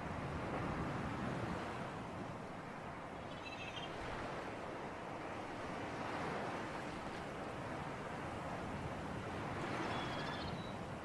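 Sea surf and wind making a steady wash that swells and eases gently. There are two short, faint high chirps, one about a third of the way in and one near the end.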